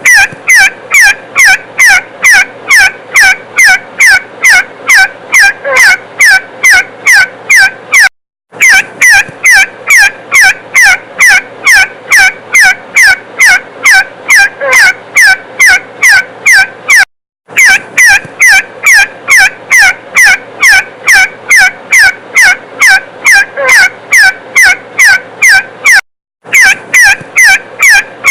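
Partridge call, a rapid, even series of short, sharp notes at about three a second, repeated in runs of about eight seconds with brief gaps between them. It is a looped recording of the kind played as a lure in partridge hunting.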